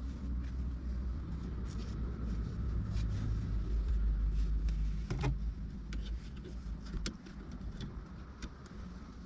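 Car engine running with a low rumble that builds over the first few seconds and eases off about seven seconds in, with a few sharp clicks on top.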